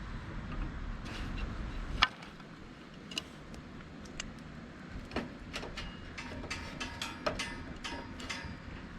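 Low rumble for about two seconds, ending at a sharp knock, then a run of small clicks and clinks, many of them close together from about five seconds in.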